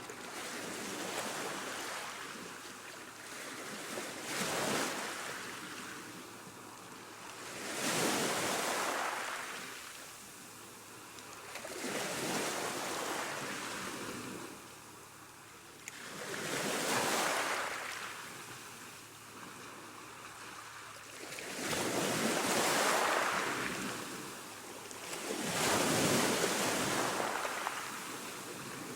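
Ocean waves breaking and washing in, one after another. Each rises to a loud hiss and dies away, a new wave coming every four or five seconds.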